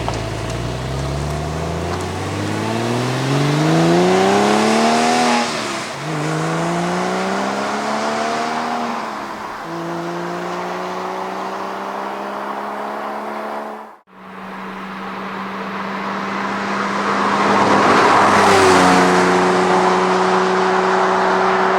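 Porsche 996 Carrera 4S 3.6-litre flat-six with a SCART valved sport exhaust, accelerating with the pitch climbing. There is an upshift about five and a half seconds in and another near nine seconds, then a nearly steady pull. A brief cut comes about 14 s in, after which the engine runs at a steady note with a louder surge of noise near the end.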